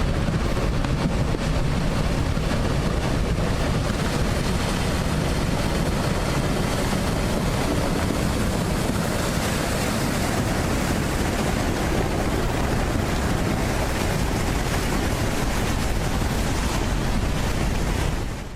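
Strong wind from a dust devil rushing and buffeting the microphone, a heavy, steady rumble with no break.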